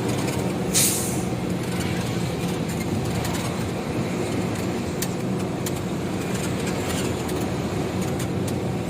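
Isuzu FTR truck's 6HK1 diesel engine running steadily on the road, fuelled with homemade biodiesel from used cooking oil. There is a brief hiss about a second in.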